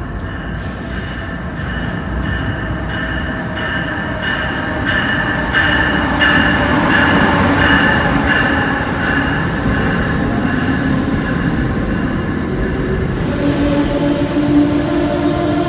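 Amtrak Northeast Regional passenger train running in along a station platform. A steady rail rumble grows louder as the front and then the stainless-steel coaches pass close by. High ringing tones pulse about twice a second through the first half, and a steadier, lower squeal comes in during the last few seconds.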